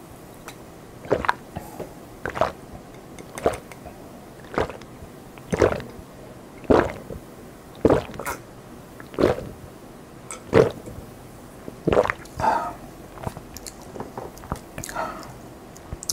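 Close-miked eating sounds: a short wet chew or swallow about once a second, a dozen or so in a row.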